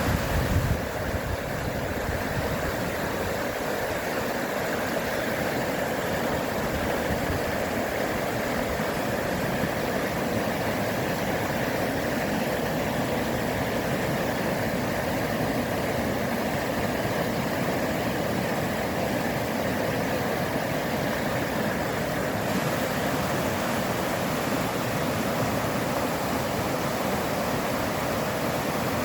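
River in full flow, water rushing over rocks in a steady, unbroken rush.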